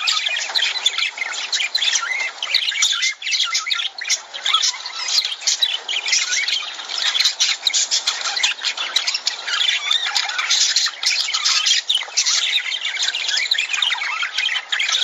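A flock of lovebirds chattering, with many shrill chirps and squawks overlapping without pause.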